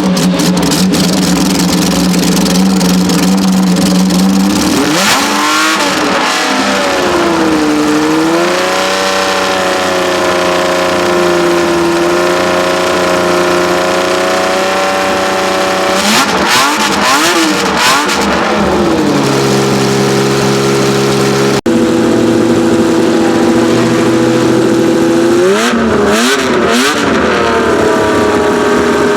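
Ferrari 1512's 1.5-litre flat-12 racing engine running hard. Its note holds steady at high revs, broken three times by quick rises and falls of throttle blips and revving.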